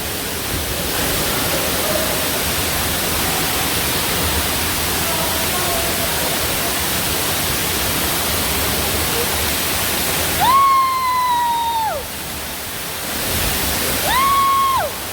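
Steady rushing of a waterfall and river. About ten seconds in a person calls out one long high held note that drops at the end, and a shorter call follows near the end.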